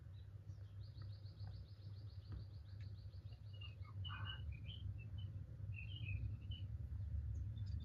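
Small birds chirping: a fast, even trill lasting about two and a half seconds, then scattered short chirps, over a low steady hum.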